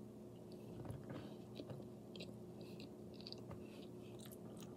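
A person chewing a mouthful of spaghetti in shrimp scampi sauce: soft, wet mouth clicks and smacks, over a faint steady hum.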